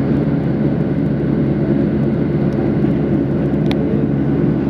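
Steady engine and air noise of a jet airliner heard from inside the cabin, with a brief high tick about three and a half seconds in.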